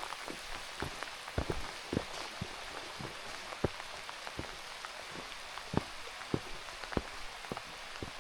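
Rain falling: a steady hiss with irregular, close taps of drops striking a nearby surface, several a second.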